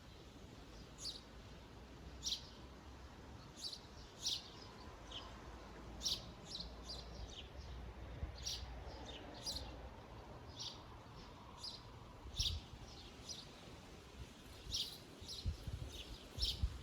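Small songbirds chirping: short, high chirps repeated every half second or so, some in quick runs, over a faint low rumble.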